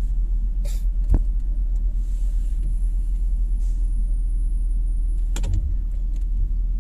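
Jaguar V8 engine idling at a standstill, a steady low rumble heard inside the cabin. There is a sharp knock about a second in and another near the end.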